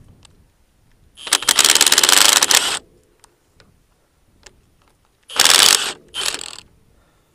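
Small cordless Milwaukee power tool with a 17 mm socket running in short bursts of rapid clicking, turning out the bolts on a vacuum pump. There is one burst of about a second and a half a little over a second in, then two shorter bursts about five and six seconds in.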